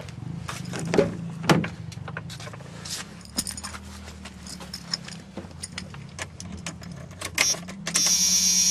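Handling noise: a run of clicks and clinks, the loudest two about a second and a second and a half in, over a low steady hum. Music starts near the end.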